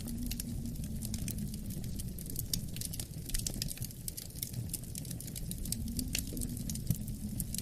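Wood fire crackling in a fireplace, with many quick irregular snaps and pops over a steady low rumble of wind.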